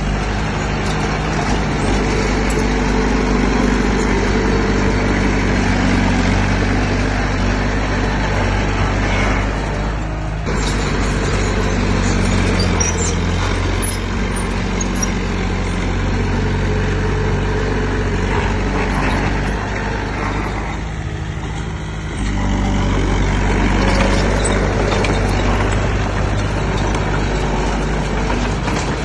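Heavy diesel engine of earthmoving machinery running under load. Its pitch shifts about ten and thirteen seconds in, drops off briefly around twenty seconds, then picks up again.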